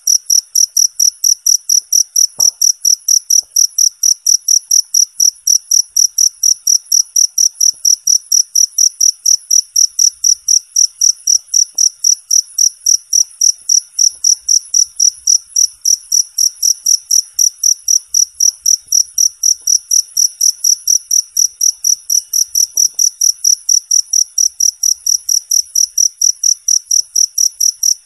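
Cricket chirping loud and clear in a fast, even pulse, about four chirps a second, with no break.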